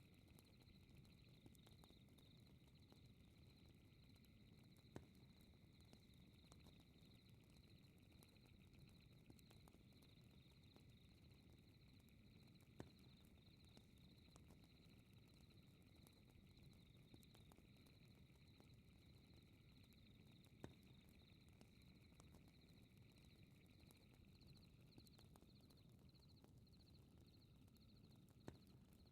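Faint fireplace ambience: a low steady fire hiss with a sharp crackle pop about every eight seconds, under a steady high, fast-pulsing chirp of night insects.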